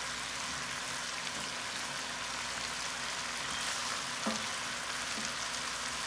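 Chicken pieces coated in garlic and chili paste sizzling steadily in hot oil in a pan, with a small knock of a utensil about four seconds in.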